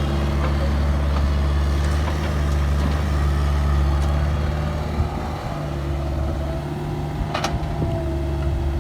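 Diesel engine of a heavy construction machine running steadily at a low, even speed, with one short sharp click about seven and a half seconds in.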